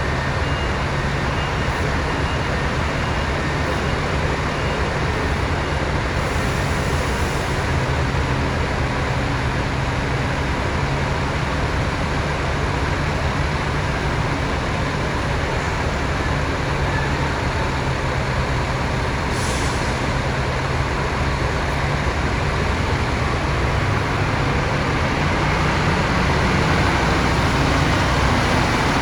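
Scania K400 coach's diesel engine running steadily, with two short hisses of compressed air, one about a quarter of the way through and one about two-thirds through. The engine grows slightly louder near the end.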